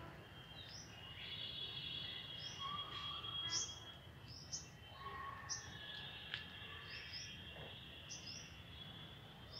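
Birds chirping in the garden: short, high, falling chirps repeat irregularly, roughly once or twice a second, over thin sustained high calls and a low steady background hum.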